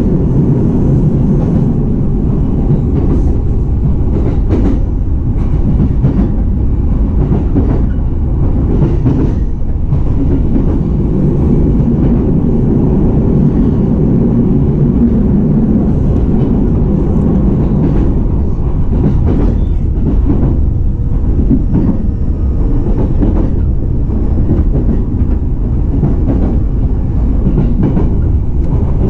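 Running noise inside an E233-series electric train's motor car: a steady, loud rumble of wheels on rail, with scattered clicks and knocks from the track.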